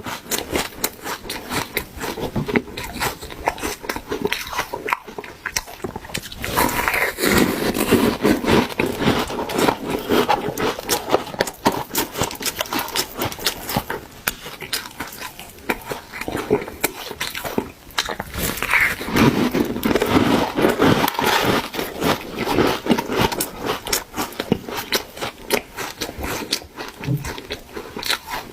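A person chewing refrozen shaved ice: a dense run of soft crunches and crackles, with two louder stretches of biting and chewing.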